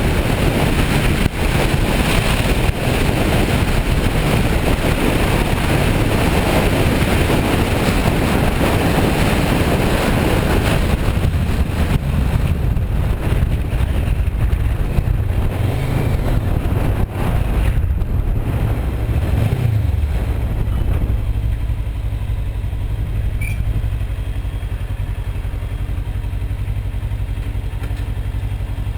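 Kawasaki Versys 650 motorcycle's parallel-twin engine running under heavy wind noise on the microphone while riding; about two-thirds of the way in the wind dies away as the bike slows, leaving the engine idling steadily.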